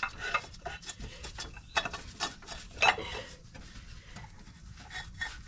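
Metal tools scraping and clinking against a seized pulley spacer on an engine crankshaft, irregular rubbing with a few sharper metal knocks in the middle, as it is worked to break it loose.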